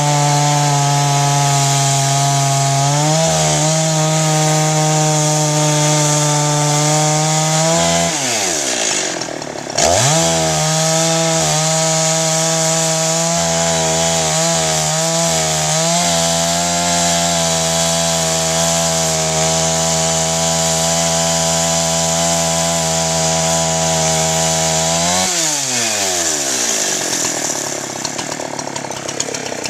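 Two-stroke chainsaw running at full throttle, ripping lengthways through a log in a chainsaw mill. About eight seconds in the engine note falls away as the throttle eases off, then climbs back up to speed about two seconds later. A few seconds before the end it falls away again to a rough, uneven idle.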